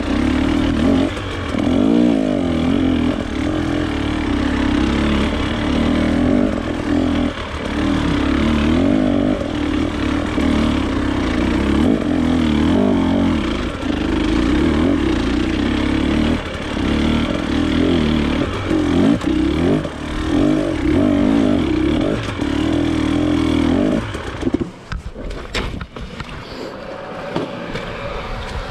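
Off-road motorcycle engine running under way, its pitch rising and falling as the throttle opens and closes. Near the end the engine note drops away and it goes quieter, with a few sharp knocks.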